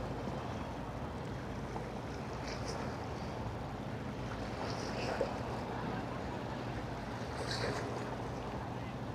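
Harbour ambience: a steady low drone of boat engines over water and wind noise on the microphone, with a few faint, short high-pitched sounds.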